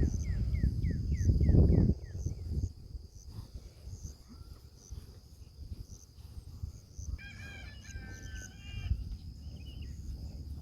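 A rooster crows once, about seven seconds in. Earlier, a bird gives a quick run of about eight falling chirps over low wind rumble on the microphone.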